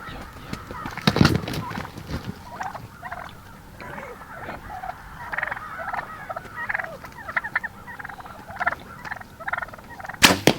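Wild turkeys calling, a run of short calls one after another, with a loud thump about a second in and a sharp crack near the end.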